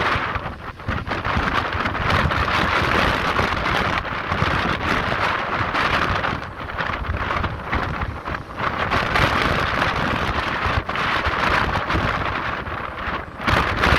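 Ocean waves surging and breaking against coastal rocks: a continuous rushing, splashing wash that swells and eases, dipping briefly a few times. Wind rumbles over it.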